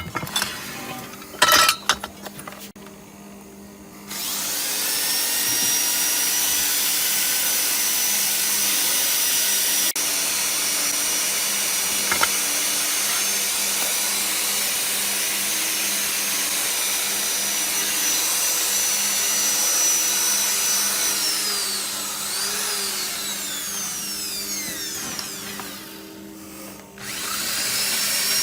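A few metallic clinks, then an electric power tool spins up about four seconds in and runs steadily with a high whine. Near the end it winds down with falling pitch, stops briefly and starts again.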